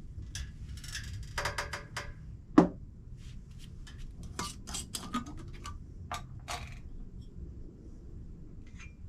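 A run of sharp clicks and light clinks, like hard gear being handled, with one loud knock about two and a half seconds in, over a steady low rumble.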